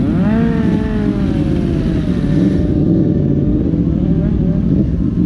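Road traffic of motorcycles and cars, a constant low rumble, with one engine rising briefly in pitch near the start and then falling away over about two seconds as it passes.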